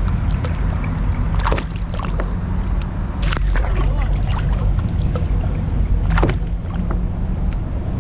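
Steady low rumble around a fishing kayak on the water, with three sharp knocks about one and a half, three and six seconds in.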